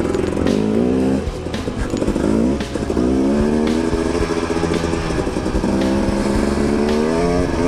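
KTM 250 XCW two-stroke dirt bike engine under riding load, the revs rising and dropping repeatedly with throttle and gear changes. It runs with a chugging the rider puts down to old gas.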